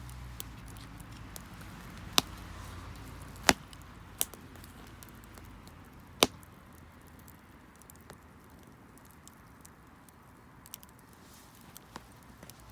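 Garden wood fire crackling: scattered sharp pops at irregular intervals over a faint hiss, the loudest about two, three and a half and six seconds in.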